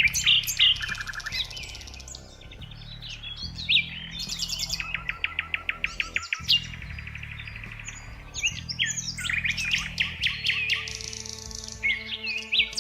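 Several songbirds chirping and calling over one another, with short whistles and chips throughout and a fast trill of repeated notes about halfway through.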